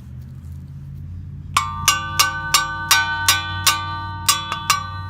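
A hammer striking steel, likely a screwdriver used as a punch to drive out the machete's handle rivets: about a dozen sharp blows, roughly three a second, starting about a second and a half in with a short pause near the end, each leaving the steel ringing like a bell.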